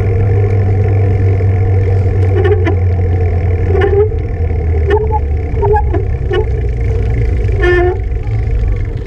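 Wind rushing over the microphone of a GoPro on a moving bicycle: a loud, steady low rumble, with a steady hum and short faint blips over it.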